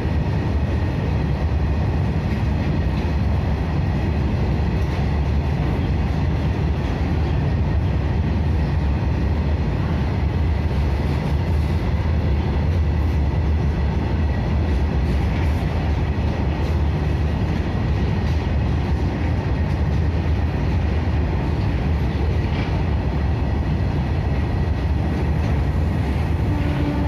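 Indian Railways train running steadily, a continuous heavy low rumble with a faint thin steady tone above it.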